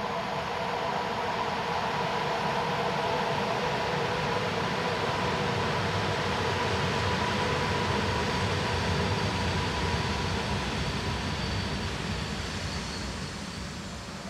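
ED72 electric multiple unit pulling in at low speed, with a steady whine over the rumble of its wheels on the track. The sound grows to a peak about two-thirds of the way through, then eases as the train slows almost to a stop.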